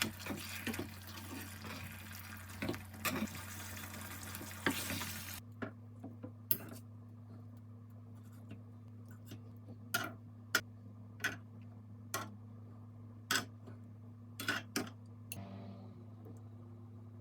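Water running from a tap into a sink, shut off abruptly about five seconds in. After it come a dozen or so sharp, separate knocks and clinks, with a low steady hum underneath.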